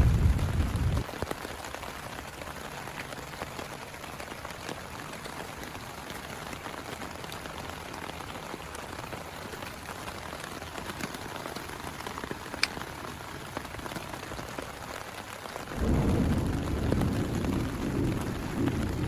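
Steady rain falling, heard as an even hiss. A deep low rumble opens the sound, stops about a second in and comes back abruptly near the end, and one sharp tick sounds about two-thirds of the way through.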